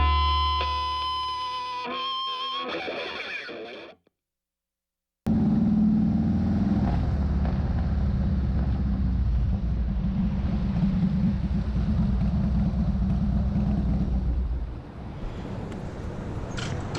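Distorted electric guitar music fading out, then a second of silence, then a motorcycle engine running steadily with road and wind noise, easing off near the end.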